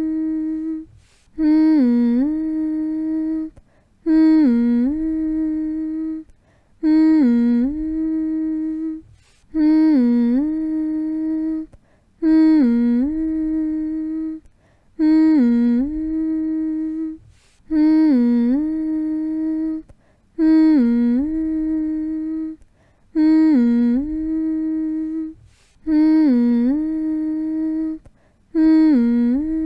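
A person's voice humming a soothing lullaby-style hum, the same short phrase over and over, about every three seconds with a short breath-like gap between. Each hum slides down and back up in pitch, then holds on one steady note.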